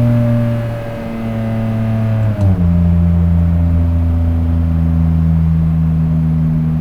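Single-turbo 2003 Nissan 350Z's VQ35DE V6 running under steady load, its pitch easing down slightly. About two and a half seconds in the pitch drops sharply with a brief dip in loudness, as at an upshift, and the engine then holds a lower, steady note.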